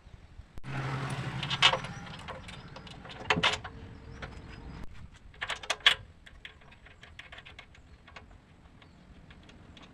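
Workshop handling noises: several sharp knocks and clinks among scattered small ticks, with a short low hum about half a second in.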